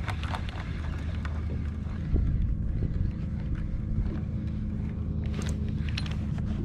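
Scattered clicks and knocks from a fishing kayak and its gear, with a stronger knock about 2 seconds in and a cluster of clicks near the end, over a steady low rumble.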